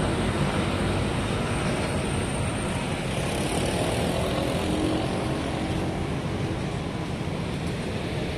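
Street traffic noise: a steady rumble of motor vehicle engines that slowly grows quieter.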